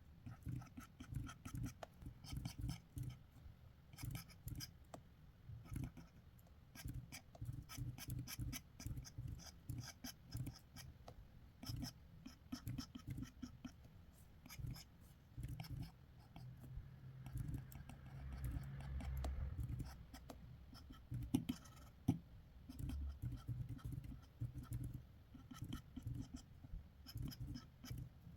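Quick sketching strokes of a drawing tool scratching across paper, short and uneven, with a longer stretch of continuous rubbing about two-thirds of the way through and a couple of sharper taps just after.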